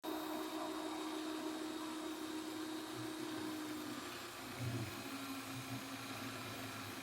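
A small electric motor running steadily under a hiss, its hum dropping slightly in pitch about four seconds in, with a couple of low thumps around the middle.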